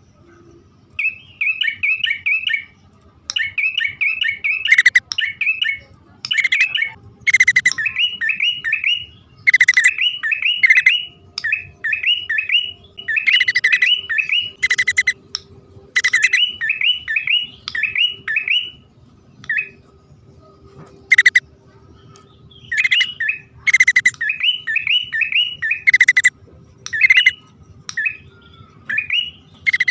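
Prinias (prenjak), male and female, calling in a lure recording: repeated bursts of quick, rising chirps, five or six notes to a burst, broken up by sharp, louder single calls.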